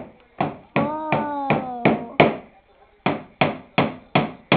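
Hammer tapping nails into the wood of a birdhouse, quick even strikes about three a second, with a short pause a little over halfway through.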